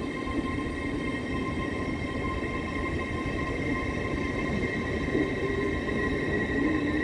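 Passenger train at a station platform running steadily: a continuous low rumble with a steady high-pitched whine over it.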